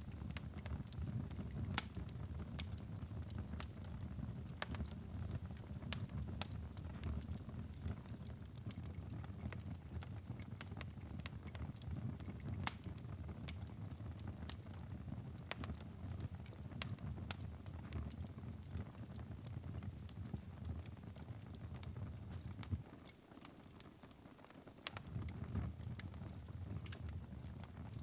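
Wood fire in a fireplace crackling, with irregular sharp pops and snaps over a low steady rumble of the flames. The rumble dies away briefly about three-quarters of the way through, then returns.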